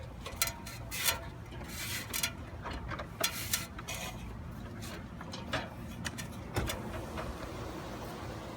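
Irregular knocks, clicks and scrapes of movement and handling, thickest in the first four seconds and sparser after, over a steady faint rushing.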